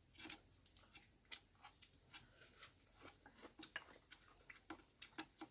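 Near silence: faint, scattered light clicks of utensils against bowls at a meal, over a steady high chirring of crickets.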